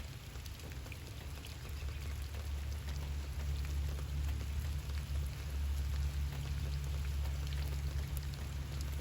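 Outdoor ambience dominated by a steady low rumble of wind on the microphone, with faint scattered small ticks above it.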